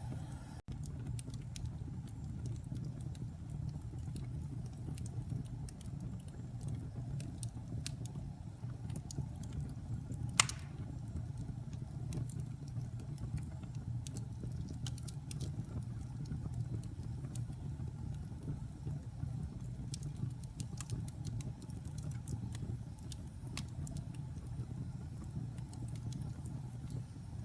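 Wood fire burning in a fireplace: a steady low rumble of the flames with frequent small crackles and one sharper pop about ten seconds in.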